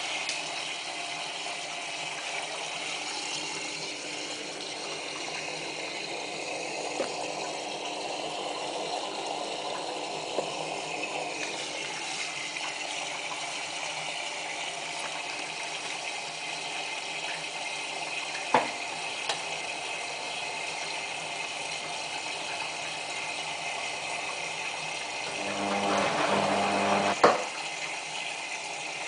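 Whirlpool AWM4066 washing machine taking in water for the final rinse, a steady rushing hiss, topping up because the bulky, absorbent blanket soaks up the water. A few sharp clicks, and near the end a louder low hum for about two seconds that ends in a click.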